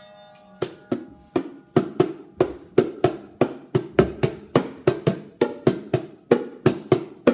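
Bongo drums struck in a steady rhythm of about three hits a second, starting just under a second in.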